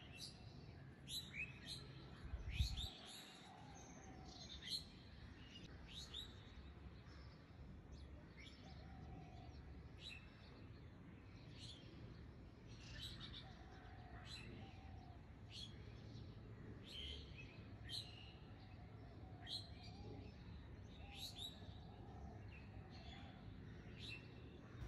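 Faint small-bird chirps, short downward-sweeping calls repeating about once a second, with a soft low thump about two and a half seconds in.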